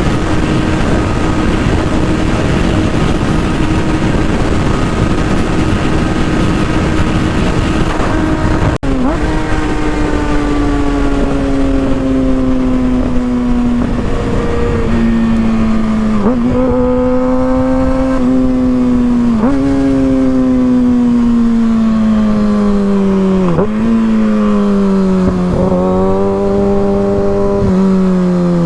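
Kawasaki ZX-6R inline-four engine through an M4 GP exhaust, held at steady high revs for about nine seconds. It then changes abruptly and the revs fall steadily, broken by several quick upward blips as it downshifts while slowing.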